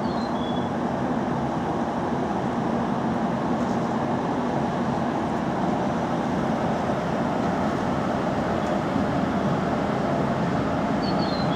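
Steady rumble and hum of a JR 719 series AC electric train, with a few short high chirps near the start and again near the end.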